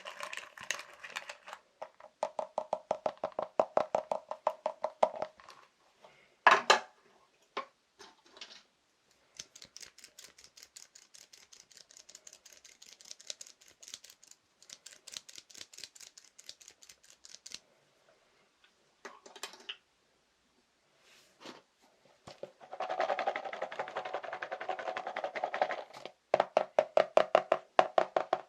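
Fast ASMR tapping on assorted everyday objects: quick runs of light taps, several a second, broken by short pauses. The tone of the taps changes from run to run as different objects are tapped.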